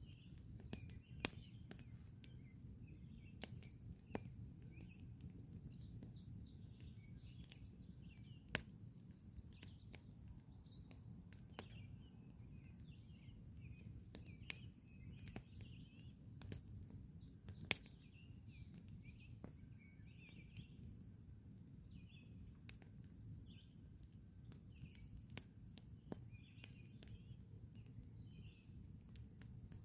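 Quiet wood campfire crackling, with irregular sharp pops a few seconds apart over a low steady rumble. Songbirds chirp and sing in the background throughout.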